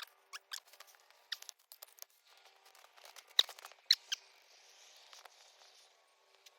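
Small ferro rod struck with a scraper, a series of short sharp scrapes, the two loudest about three and a half and four seconds in, then a faint steady hiss.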